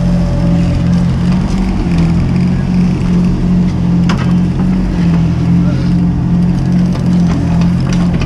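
Mini excavator's diesel engine running steadily under work, its low drone pulsing about twice a second, with a sharp knock about four seconds in and another near the end.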